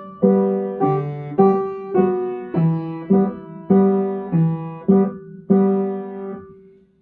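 Piano played with both hands: a simple melody over left-hand chords, one note or chord about every half second, each struck and decaying. The last chord is left to ring and fades out near the end.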